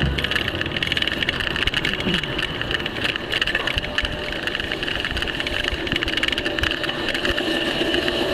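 Riding noise from a bicycle on a city street: a steady rush with many small rattles and clicks.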